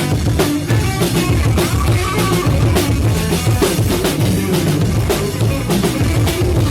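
Instrumental post-rock band playing live: a drum kit beats a steady rhythm under sustained bass and electric guitar.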